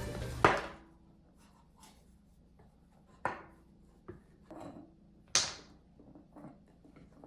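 Background music ends about half a second in. A few scattered light knocks and clicks of handling noise follow, with one short, louder swish a little past the middle.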